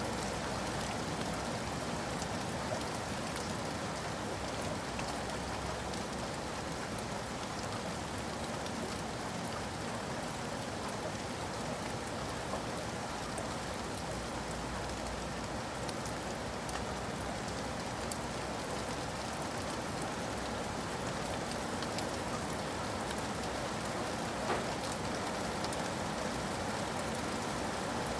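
Steady rain falling on a surface, an even hiss with scattered individual drop clicks, one a little louder near the end.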